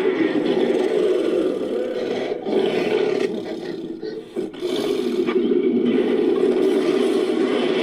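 Designed monster roar, layered from recorded big-cat and ape roars: a long rough roar that fades about four seconds in, then a second long roar.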